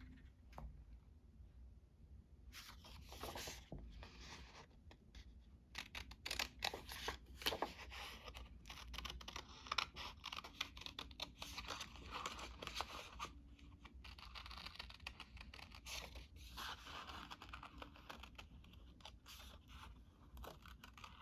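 Paper being torn and handled by hand: a run of irregular short rips, crinkles and scratches.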